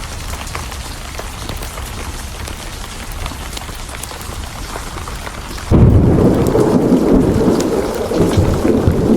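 Steady rain, then, about two thirds of the way in, a sudden loud crack of thunder that rolls on as a deep rumble.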